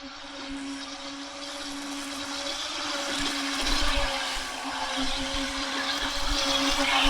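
Radio-controlled model boat's motor whining at a steady pitch, with rushing hiss, growing steadily louder as the boat comes closer.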